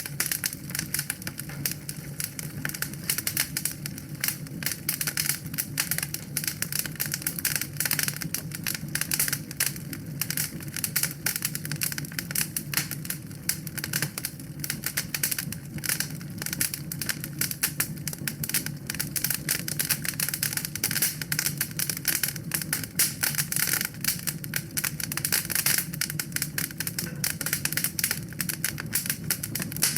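Wood fire crackling in a fireplace: a dense, continuous stream of irregular small pops and snaps over a steady low rumble.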